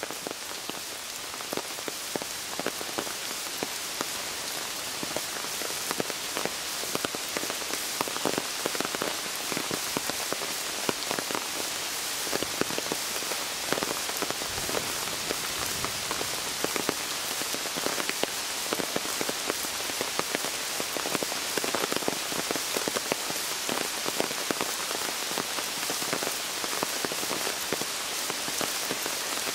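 Steady heavy rain pattering on sandy ground and stones as countless close drop hits, with rainwater running in a shallow stream over the pebbles.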